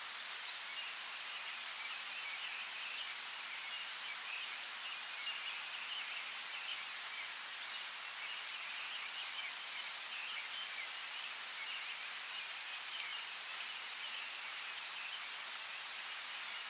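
Steady rain falling, a constant hiss with a few sharper drop ticks, under a dense chorus of high chirping that keeps up throughout.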